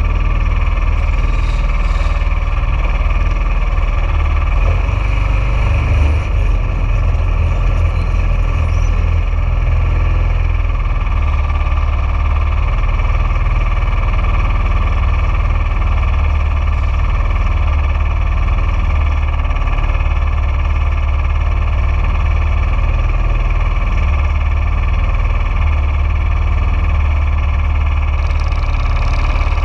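Junior dragster engine idling steadily close to the microphone, a deep, even rumble that does not rev up or down.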